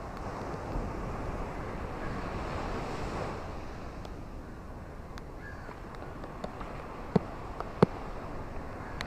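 Ocean waves washing on a shore, the surf swelling over the first few seconds and then easing back to a steady hiss. In the second half come scattered sharp clicks or knocks, two louder ones near the end.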